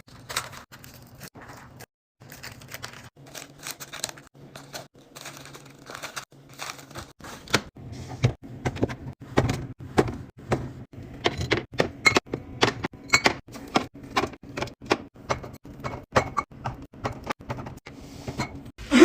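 Containers and food items being handled and set down in a fridge: a run of irregular knocks, clicks and clatter that grows busier about halfway through.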